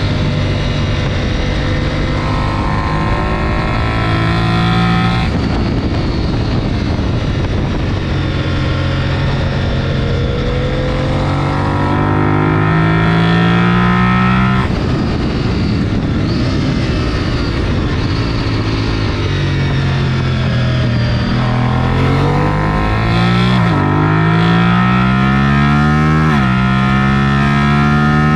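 A superbike engine running hard on a racetrack. The revs climb again and again as it pulls through the gears, with quick pitch drops at upshifts near the end.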